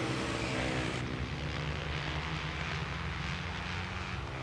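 Racing motorcycle engines running at a distance in a flat-track race, a steady drone that eases off slightly, with no pass close by.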